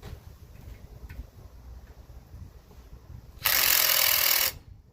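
Impact wrench run in one short burst of about a second, starting about three and a half seconds in and cutting off abruptly.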